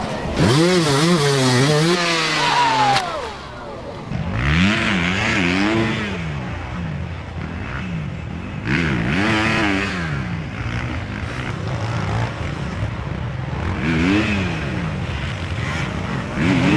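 Dirt bike engine revving hard in repeated bursts, its pitch climbing and dropping with the throttle several times over.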